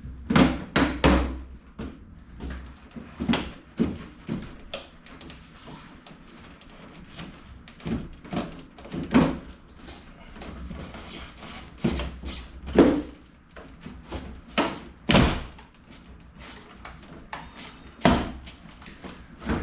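Plastic bumper cover being pried and popped loose from its clips along the fender: a string of irregular snaps, knocks and clunks, with the heaviest thunks about 13, 15 and 18 seconds in.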